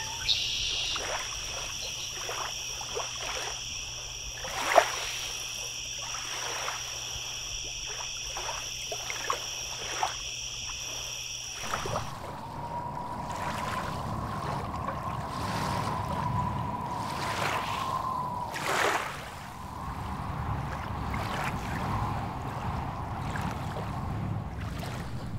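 Frogs calling in a steady high-pitched chorus, with scattered clicks. About halfway through it cuts to a low rumbling wind-and-water ambience with a steady hum.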